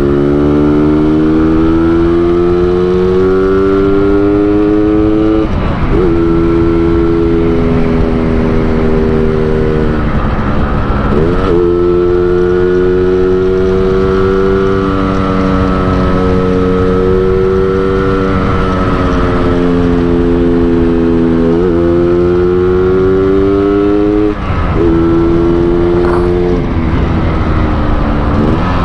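Yamaha RX-King 135cc two-stroke single, tuned in the Medan 'ngorok' style, running under load on the road. Its revs climb steadily in each gear and drop back sharply at each gear change, several times over.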